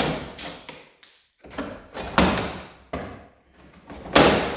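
Plastic rear bumper cover of a BMW X3 being worked off its mounts: retaining clips popping loose and the cover knocking in a series of sharp clacks, each echoing briefly, with the loudest cluster near the end.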